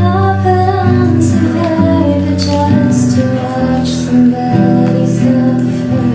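A woman singing a song to a strummed acoustic guitar.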